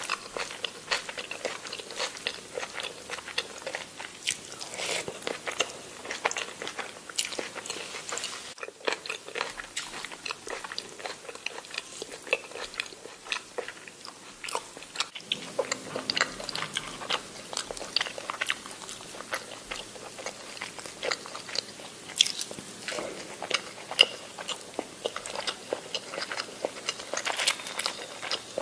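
Close-miked eating sounds: a person biting and chewing food, a dense run of crisp crunches and wet mouth clicks, with a brief break about nine seconds in.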